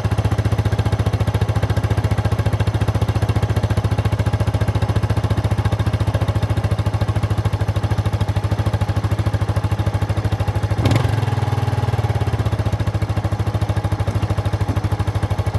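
Kawasaki Estrella Final Edition's air-cooled single-cylinder engine on its stock exhaust, running steadily at idle after its first start following winter storage. A single sharp click sounds about eleven seconds in.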